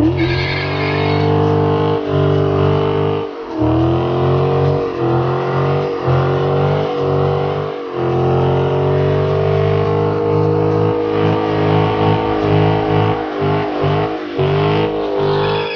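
Dodge Challenger Scat Pack's 6.4-litre Hemi V8 held at high revs through a burnout. The pitch climbs slowly and drops away briefly several times as the throttle is eased and reapplied.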